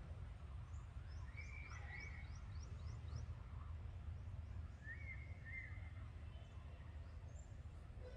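Faint bird calls over a low steady rumble: a quick run of about nine short, high, falling notes in the first few seconds, and a shorter two-part call heard twice, about a second and a half in and again about five seconds in.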